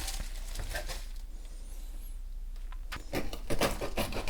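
Loaf of bread being handled in its plastic bag ready for slicing: a few light clicks at first, a quieter spell, then a run of rustling and scraping from about three seconds in.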